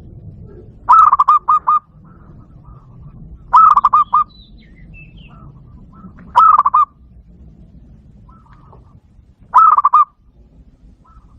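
Zebra dove call played through a Bluetooth speaker: four short, loud calls about every three seconds, each a quick run of rolling, cooing notes.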